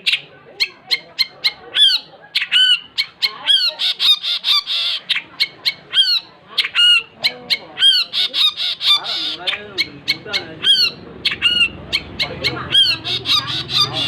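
Long-tailed shrike (cendet) singing vigorously in full song: a rapid run of sharp, clipped notes and short arching calls, several a second, broken by stretches of harsh chatter.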